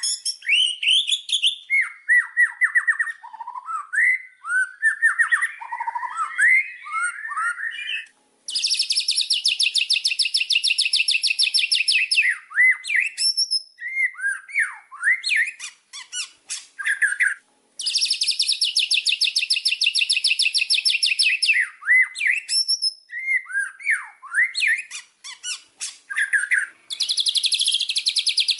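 White-rumped shama (murai batu) singing: varied, fast whistled phrases that slide up and down, broken three times by a long, rapid, rattling trill lasting three to four seconds.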